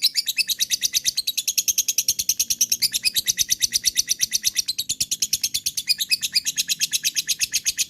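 Lovebird giving its long 'ngekek' chatter: an unbroken run of rapid high-pitched chirps, about ten a second.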